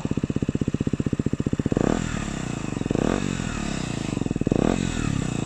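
KTM Duke 125's single-cylinder engine running through an aftermarket SP Engineering slip-on exhaust. It idles with an even beat, is blipped three times from about two seconds in, and settles back to idle near the end.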